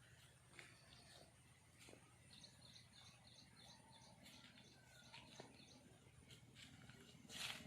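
Faint outdoor ambience with a bird chirping: a quick run of short, high chirps about halfway through, and a brief noisy rustle near the end.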